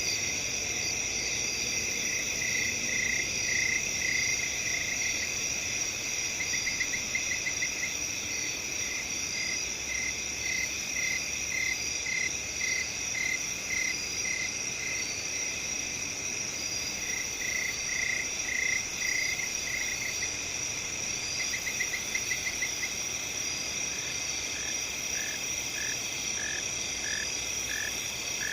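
Night field chorus of crickets and other insects: a steady high chirring, with runs of short repeated chirps that start and stop every few seconds.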